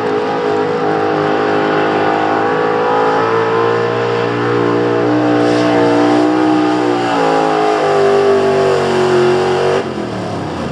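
Pulling truck's engine at full throttle hauling a weight-transfer sled down the track. The note holds high, drops about seven seconds in as the engine bogs under the load and the tyres spin out, then cuts off sharply near the end as the driver lets off.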